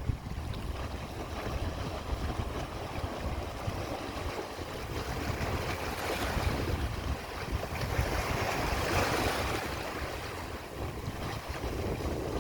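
Sea waves washing on the shore with wind buffeting the microphone; the surf swells twice, about six and nine seconds in.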